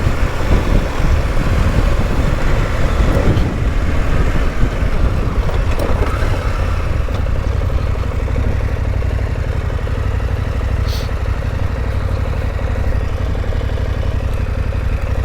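Motorcycle engine running steadily while riding, with a loud, even wind rumble over the microphone.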